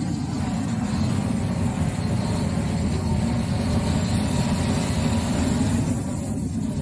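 A vehicle engine idling steadily, a low, even running sound.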